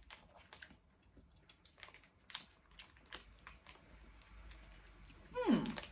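Faint, scattered clicks and crackles of a person chewing gum, ending with a short falling 'mm' from the chewer near the end.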